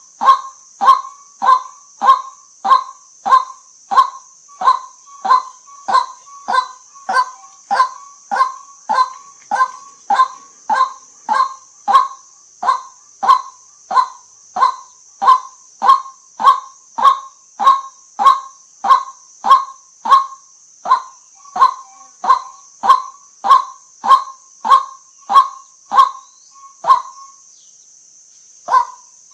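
White-breasted waterhen calling, a monotonous 'kwak' repeated about three times every two seconds. The calls break off for a couple of seconds near the end, then start again.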